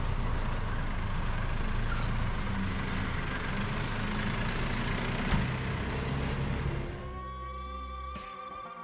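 A motor engine running steadily with a rumbling hum, cut off about seven seconds in by background music with held tones.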